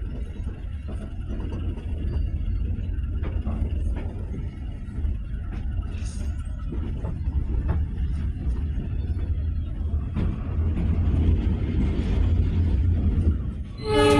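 Steady low rumble of a passenger train, with a few light clicks and knocks. A louder, pitched sound with several tones starts suddenly right at the end.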